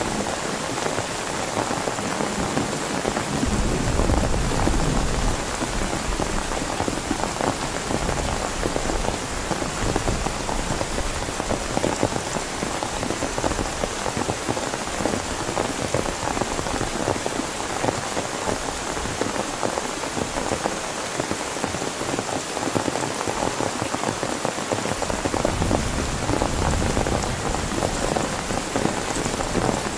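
Heavy rain falling steadily, with many close drops striking a surface. A low rumble swells about four seconds in and again near the end.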